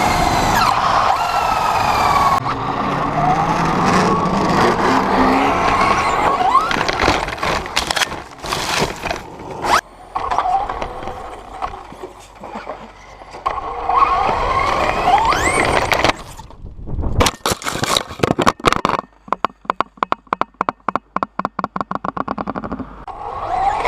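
Electric motor of a radio-controlled truck whining up and down in pitch with the throttle, over the rumble and scrape of its tyres on the ground. Near the end there are a few loud knocks, then a fast series of clicks that speeds up.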